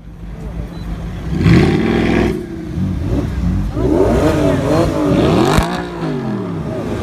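Car engine revving: a loud rev about a second and a half in, then several quick blips of the throttle, pitch rising and falling, with a single sharp pop near the end.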